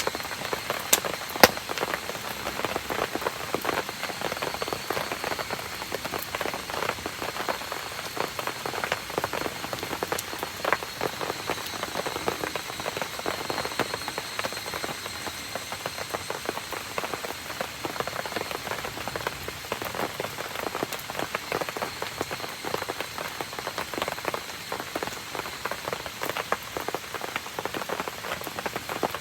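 Steady rain pattering on surfaces, a dense spray of small drop ticks, with a couple of sharper clicks about a second in.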